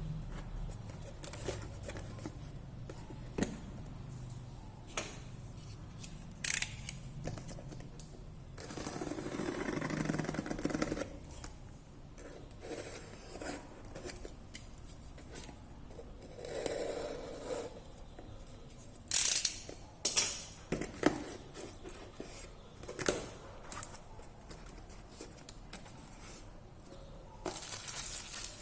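Workbench handling sounds of a broken phone being worked on: scattered sharp clicks and taps of small hard parts and tools, with two stretches of scraping or rubbing.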